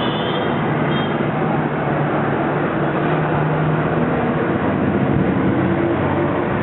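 Road traffic: a steady dense noise of vehicle engines running and passing, with engine tones drifting up and down in pitch.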